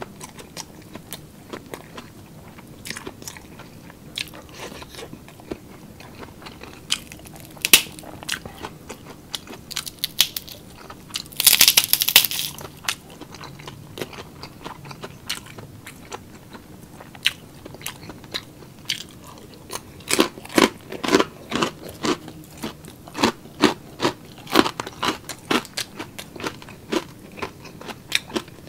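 Close-miked eating: crunchy chewing and biting of crisp pork rind (chicharon) and food, in sharp separate crunches. A dense burst of crackling near the middle as the chicharon is broken apart, then a run of rhythmic crunchy chewing, about two crunches a second, in the second half.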